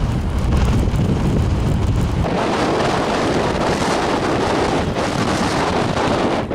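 Storm-force wind buffeting the microphone: a heavy low rumble, then from about two seconds in a broader, steady rushing hiss.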